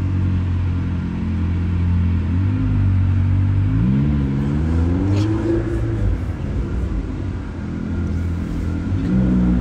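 Car engine heard from inside the cabin: a steady low drone that rises in pitch as the car accelerates about four seconds in, then drops back a couple of seconds later.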